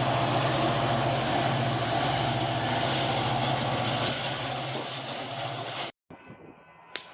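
A train passing close by: a loud, steady rumble with a low hum that eases off after about four and a half seconds. About six seconds in it cuts off abruptly to a much quieter background with a few light clicks.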